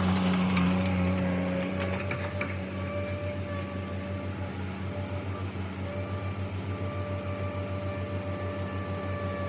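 Vehicle engine running, louder at first and settling after about two seconds into a steady, pulsing idle, with a few clicks around the change.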